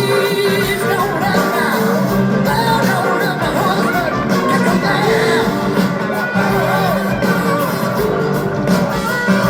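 Live rock band playing at full volume, with a gliding, wavering lead melody over steady bass and rhythm parts.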